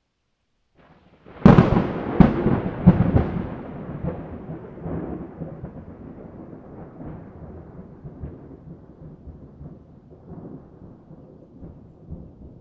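Thunderclap: a series of sharp cracks about a second and a half in, then a long rolling rumble that slowly dies away.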